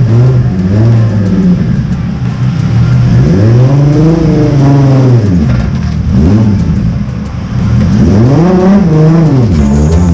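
Turbocharged 2JZ inline-six engine revving up and falling back about three times, played through a newly built exhaust with a muffler added to quiet it.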